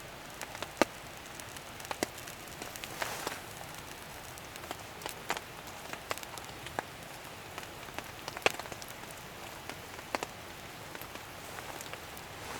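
Rain falling steadily, with large drops striking a surface in irregular sharp taps.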